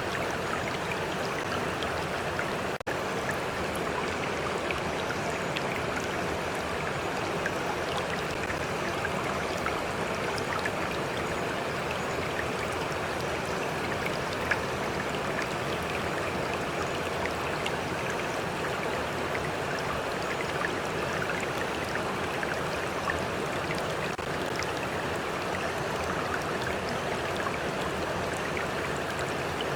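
A stream flowing steadily, its water lapping and splashing in a constant rush dotted with small drips, with a momentary dip about three seconds in.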